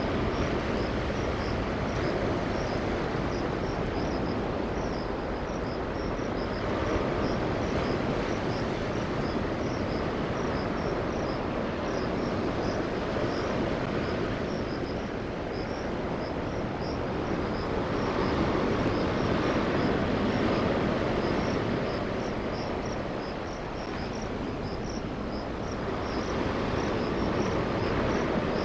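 A passing train's steady running noise, swelling and easing as it goes along the line, with insects chirping in a fast, even pulse above it.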